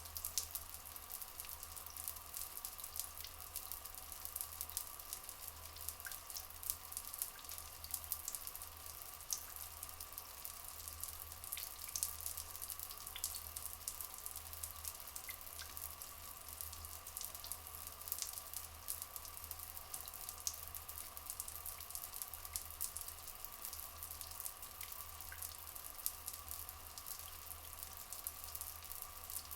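Flowing water trickling and splashing steadily with many small drips, over a steady high even tone.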